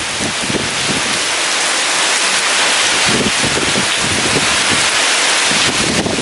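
Heavy rain pouring steadily with strong wind, which gusts irregularly and buffets the microphone with a low rumble.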